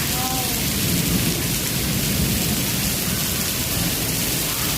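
Hail and rain of a hailstorm pelting down, a dense, unbroken clatter with a deep low rumble beneath.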